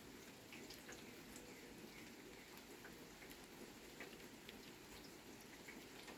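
Faint light rain: a steady soft hiss with scattered single drops ticking and pattering.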